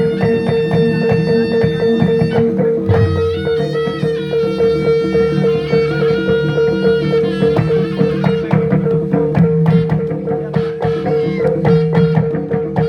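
Ensemble folk music: a reedy wind melody that bends in pitch over fast, dense drumming, with one steady held note underneath.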